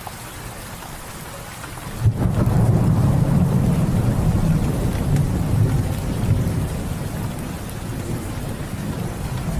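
Steady rain, then about two seconds in a sudden crack of thunder that rolls on as a long, loud low rumble under the rain, easing off and swelling again near the end.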